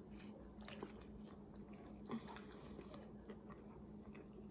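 Faint chewing and biting of a fried chicken sandwich, with scattered small mouth clicks over a steady low hum.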